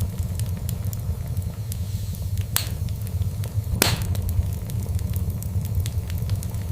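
Fireplace fire crackling: a steady low rumble under many small scattered crackles, with two louder pops around the middle, the second the louder one.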